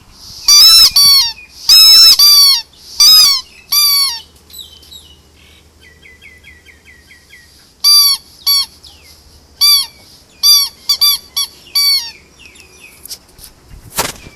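A squeaky rubber toy ball squeezed over and over, each squeak a short high squeal rising then falling in pitch, in quick bursts of two to four with pauses between. A single sharp click comes near the end.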